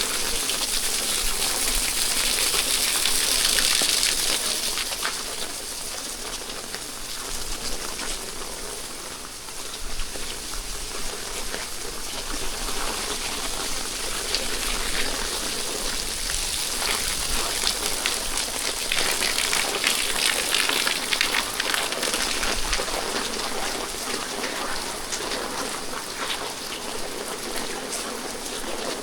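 Steady rain falling, an even hiss of raindrops on the surfaces around, swelling a little near the start and again about two-thirds of the way through.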